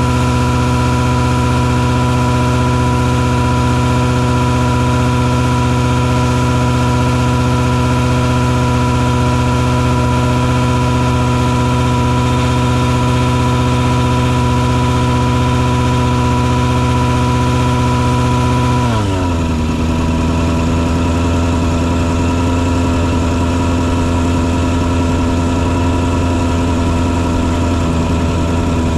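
Engine of a mosquito-fogging truck rig running at a steady speed with a pitched whine. About two-thirds of the way through it drops quickly to a lower speed, then runs on steadily.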